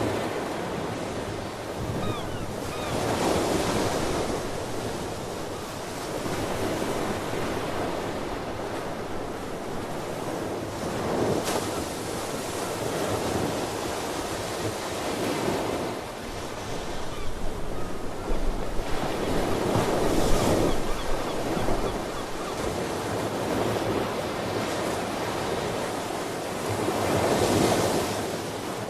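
Ocean surf: waves breaking and washing up the shore, the rush swelling and easing every few seconds. Wind buffets the microphone.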